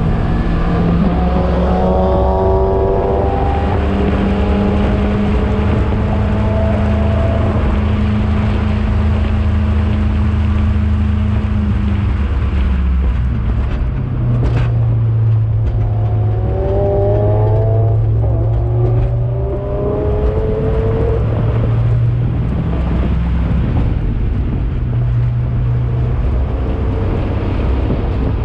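Four-cylinder engine of a Mazda Miata race car, heard from inside the cabin at full throttle on a racing lap. It holds a high steady note, drops in pitch about halfway through as the car slows for a corner, then climbs again as it accelerates. A sharp click sounds just after the drop.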